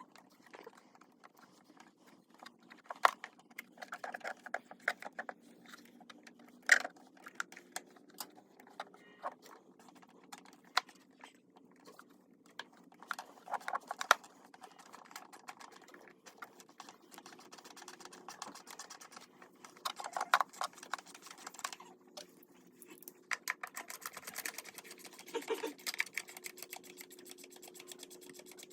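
Irregular light clicks and taps, with a few sharper knocks, over a faint steady hum.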